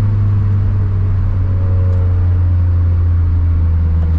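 Turbocharged 2013 Scion FR-S's flat-four engine running at a steady note as the car drives, a strong low drone through its catless front pipe and quad-tip exhaust.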